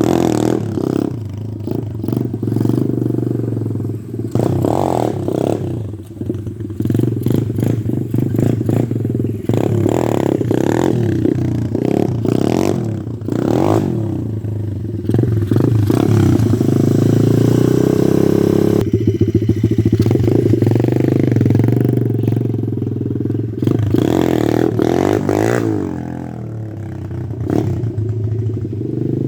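Pit bike engine revving up and down over and over as the throttle is worked. Around the middle it holds high revs for a few seconds, then drops off suddenly, and there are more throttle blips near the end.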